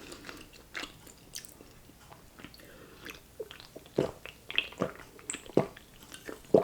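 Close-miked mouth sounds from eating and drinking: scattered wet clicks, smacks and swallows, louder and more frequent in the second half.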